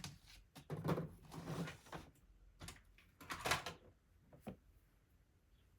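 Paper and craft materials handled on a work surface: a few short scrapes and rustles, the loudest about a second in and about three and a half seconds in.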